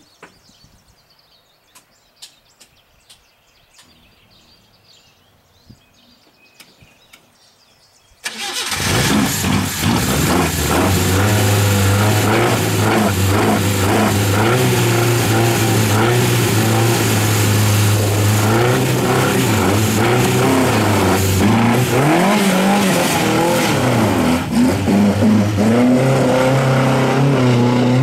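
The 1972 Datsun 1200 B110 race car's four-cylinder engine starts abruptly about eight seconds in, after faint outdoor quiet. It runs loud and steady, then revs up and down near the end as the car pulls away.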